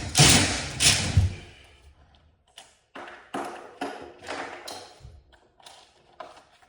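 A series of sharp knocks and taps from hand work on garage door hardware, loudest in the first second and a half, then lighter scattered clicks and knocks.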